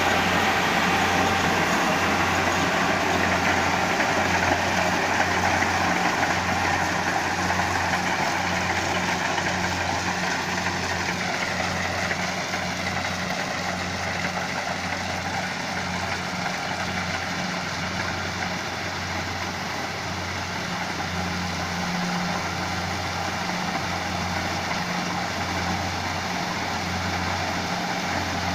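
Combine rice harvester's engine running steadily: a low droning hum with a regular pulse and mechanical clatter over it, easing slightly in loudness about a third of the way through.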